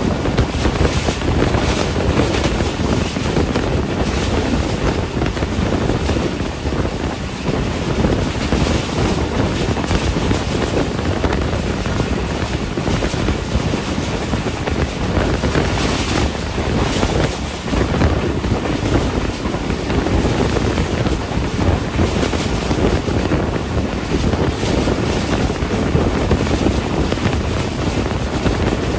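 Passenger train running at speed, heard from an open coach window: a steady rush of wind on the microphone over the rumble of the wheels on the rails.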